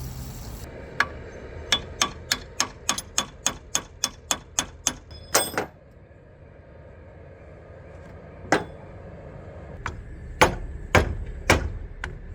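A hammer striking metal: a quick run of about fifteen blows that speed up to roughly four or five a second, then a longer ringing metallic clang, then four more single strikes spread out toward the end.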